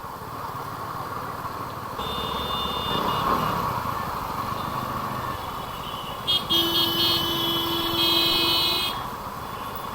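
Road traffic passing, with a short vehicle horn about two seconds in and a longer, louder horn from about six and a half to nine seconds.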